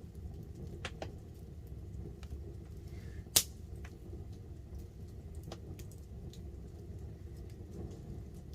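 Wood campfire crackling: scattered small clicks and pops over a steady low rush, with one sharp, loud pop a little over three seconds in.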